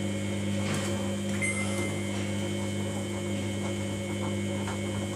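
Samsung washing machine running mid-cycle while the wash heats toward 30 °C: a steady electrical hum with a faint high whine and a few light ticks.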